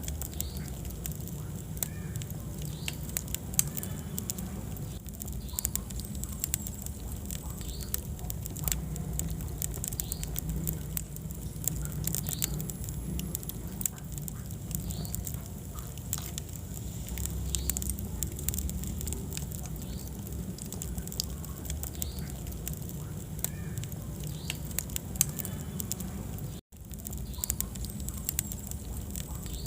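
Wood fire burning in a fireplace, crackling with frequent small sharp pops over a steady low rumble. The sound drops out for a split second near the end.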